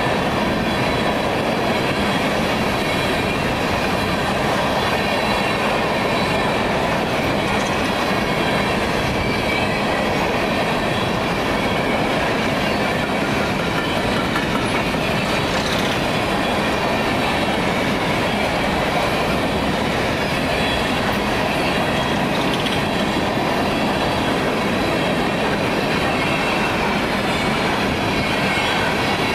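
A train rolling past on the rails: continuous steady wheel and car noise with a clickety-clack from the rail joints and a faint wheel squeal.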